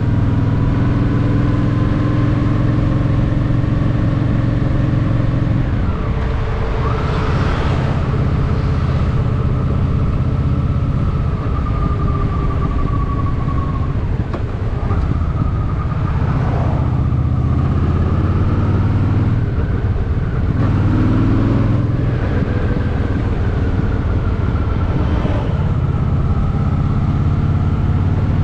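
Honda Shadow VT750's V-twin engine running under way, its pitch shifting several times with throttle and gear changes, with a rising rev about two-thirds of the way in.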